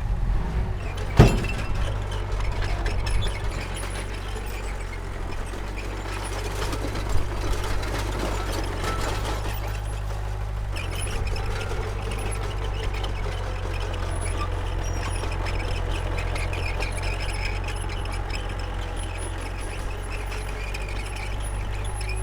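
Heavy diesel engine of earthmoving machinery running steadily under load, with a sharp metallic clank about a second in and a softer knock around seven seconds.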